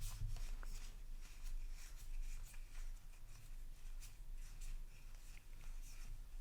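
Trading cards from an opened booster pack being handled and slid one past another: faint, repeated soft swishes and light card-stock clicks.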